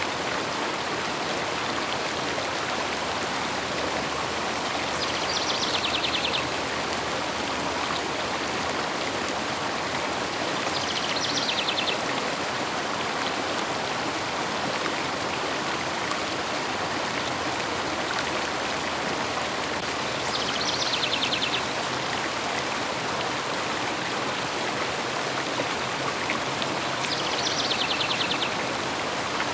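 Steady rush of a flowing river, with a bird's short high trilling call, about a second long, heard four times over it.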